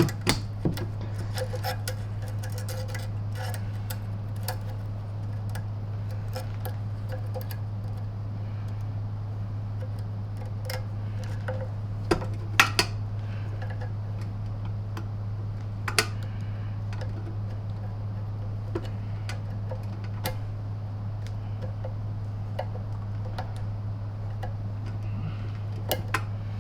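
Scattered light clicks and clinks of small metal and plastic parts being handled while a vacuum cleaner motor is put back together, over a steady low hum. The sharpest knocks come about twelve and sixteen seconds in.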